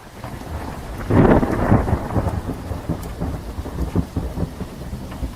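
Rolling thunder with rain: a low rumble that swells to its loudest about a second in, then rumbles on and fades, over a steady rushing hiss of rain.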